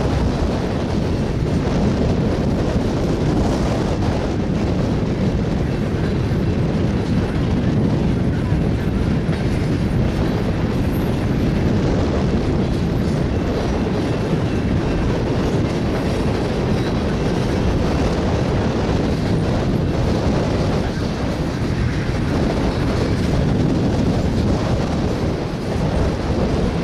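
Railroad tank cars of an oil train rolling past, a steady rumble of steel wheels on the rails.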